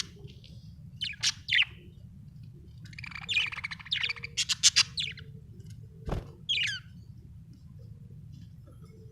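Budgerigars chirping and squawking in short bursts, thickest in a quick run a few seconds in, with one sharp knock about two-thirds of the way through. A steady low hum runs underneath.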